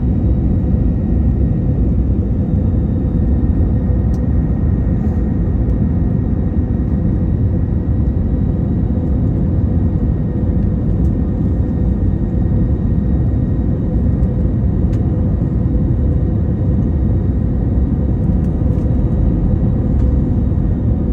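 Steady low rumble of a jet airliner's cabin, engine and airframe noise, with a faint steady whine over it.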